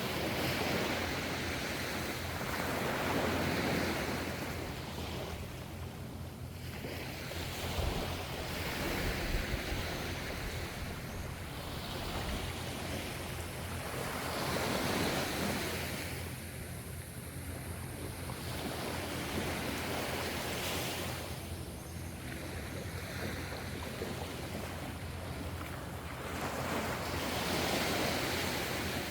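Ocean waves washing onto the shore, a new surge of surf swelling and fading about every three seconds, over a steady low rumble.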